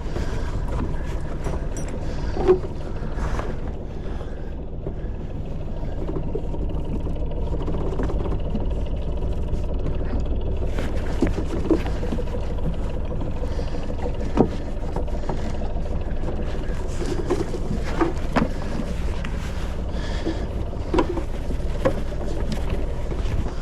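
Sailboat's inboard engine running steadily at low speed while the boat is held at its berth, with a few sharp knocks and clicks from the boat.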